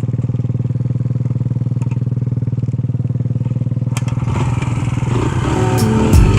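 Four-stroke single-cylinder pit bike engine idling with a steady, even beat. About four seconds in it is broken off by a click and a rise in noise, and music comes in near the end.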